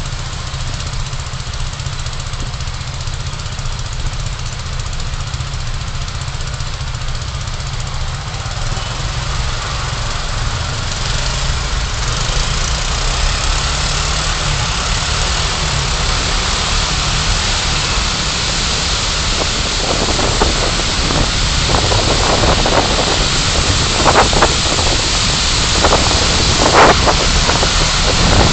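Car driving, recorded from inside the cabin: a steady low engine and drivetrain rumble, with tyre and wind noise growing louder from about a third of the way in. A few brief higher sounds come near the end.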